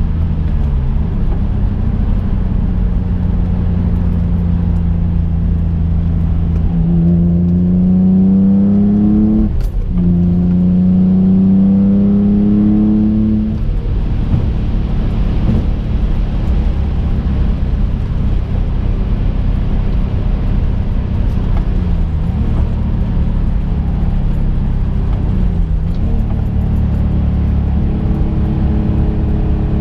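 2005 Infiniti G35's twin-turbocharged 3.5-litre V6 heard from inside the cabin. It cruises steadily, then about seven seconds in pulls up through the revs, drops briefly at a quick gear change near ten seconds, and pulls again before easing back to a steady cruise.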